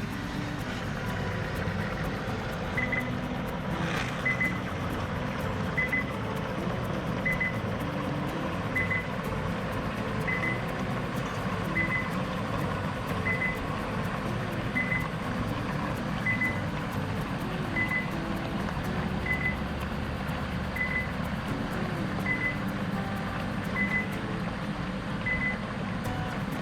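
Car A/C service station beeping steadily, a short high double pip about every second and a half, over the continuous hum of its machinery running.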